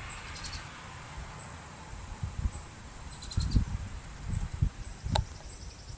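Outdoor ambience: faint high chirping in the background with scattered low rustles and bumps, and one sharp click about five seconds in.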